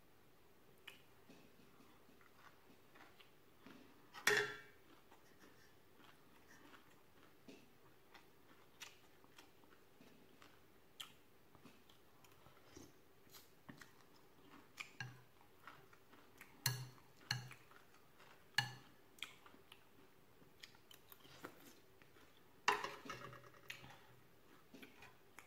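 Close-up chewing and soft mouth sounds while eating a vegetable curry. A metal spoon clinks and rings against the bowl twice, loudest about four seconds in and again near the end.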